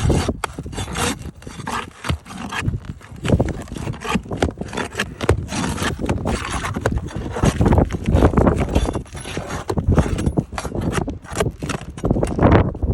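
Roof shingle being pried up with a bar to get at its nails: irregular knocks and scraping, with dips in between.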